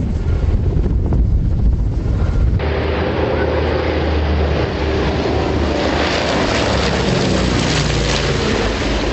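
Low drone of an aircraft engine mixed with a wind-like rush. About two and a half seconds in, the sound abruptly becomes a broader, brighter rush.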